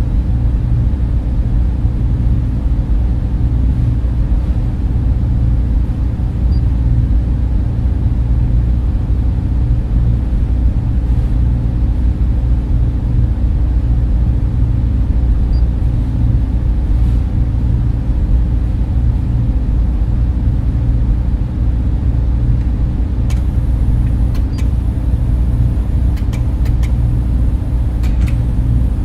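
Steady low drone of server room cooling fans and machinery, unchanging, with a few faint clicks in the last few seconds.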